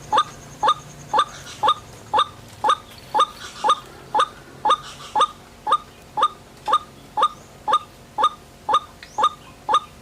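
White-breasted waterhen calling: one short, upward-sliding note repeated steadily about twice a second.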